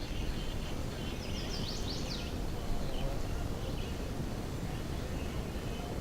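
Outdoor ambience: a steady low background noise with a few short, high bird chirps, clustered about one to two seconds in and fainter ones after.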